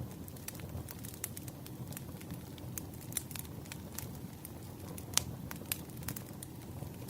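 Campfire burning: a steady low rumble of flames with scattered crackles and pops of burning wood, one sharper pop a little after five seconds in.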